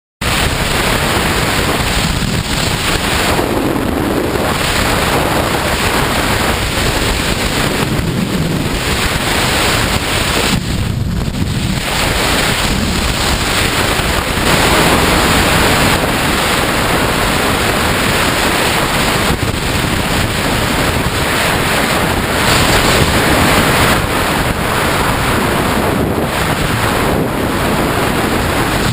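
Heavy wind noise rushing over the camera microphone: a loud, steady roar of wind with no clear engine note standing out.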